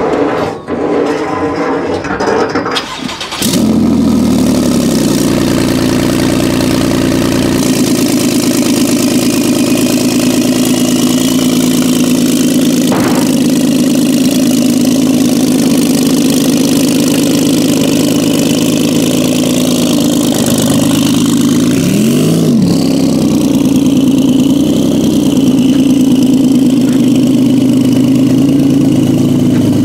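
A tuned Porsche 991 Turbo S's twin-turbo flat-six starts up about three and a half seconds in, then idles steadily. There is one short throttle blip just after twenty seconds in, and a smaller one a few seconds later.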